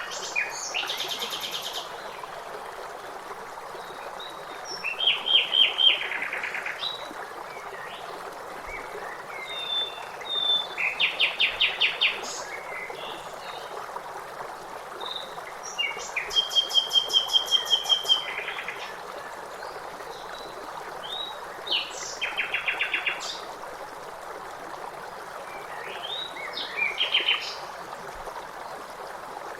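Birds singing in short phrases of fast repeated chirping notes, trilling every few seconds, over the steady rush of a waterfall.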